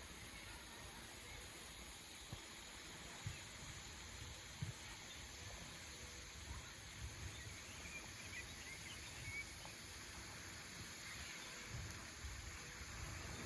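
Faint outdoor ambience: a low uneven rumble with a few soft clicks, and a brief run of faint high chirps about two-thirds of the way through.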